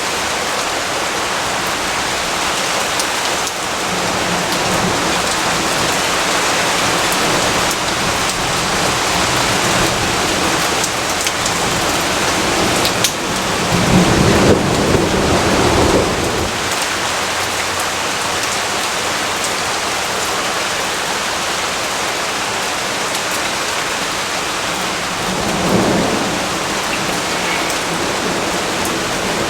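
Steady heavy rainfall with rumbles of thunder: a long rumble about halfway through and a fainter, shorter one near the end.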